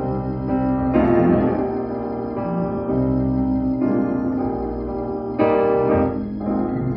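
Keyboard music with a piano-like sound: slow, sustained chords that change every one to three seconds.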